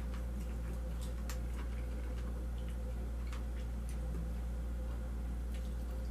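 Someone chewing food, heard as faint irregular mouth clicks, over a steady low hum.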